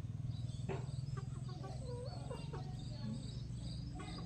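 Chickens clucking in short, scattered calls, with a steady high insect tone and a steady low hum underneath.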